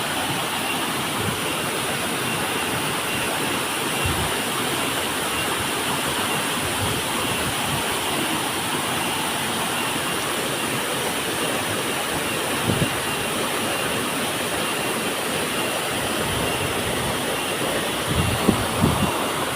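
Waterfall roaring steadily, an even rush of falling water, with a few brief low bumps about two-thirds of the way through and again near the end.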